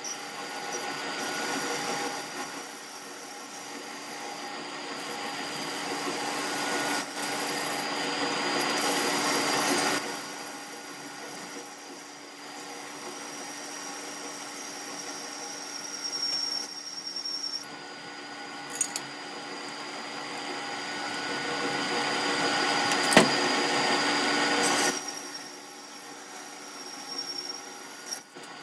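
A metalworking machine tool running with a steady hum and high squealing tones. Two long stretches of cutting or grinding noise build up and then stop abruptly, the first about ten seconds in and the second near the end. A sharp click sounds shortly before the second stretch stops.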